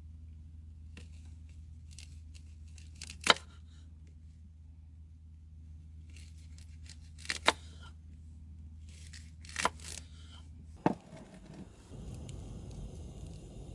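Packaging being torn open in three short crinkly bursts. A single knock comes near the end, and a steady high-pitched background sets in as a low hum stops.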